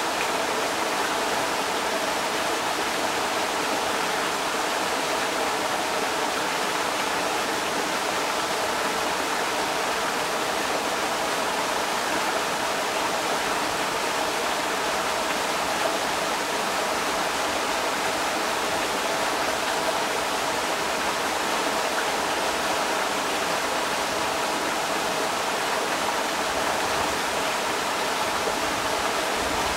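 Creek water rushing steadily over rocks, an even, unbroken splashing rush.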